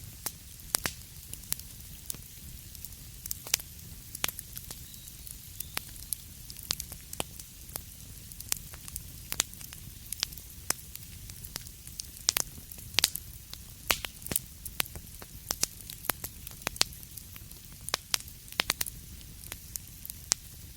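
Wood fire crackling in a fireplace: irregular sharp pops and snaps, several a second, over a steady low rumble and a soft hiss.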